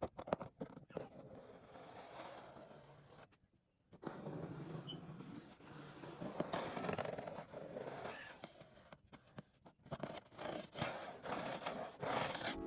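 A package being handled and opened: packaging rustles and scrapes, with scattered sharp clicks and a short break about three and a half seconds in.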